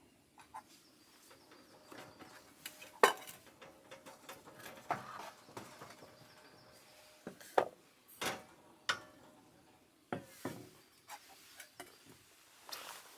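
Camp cookware and utensils being handled: a series of separate, irregularly spaced clinks and knocks.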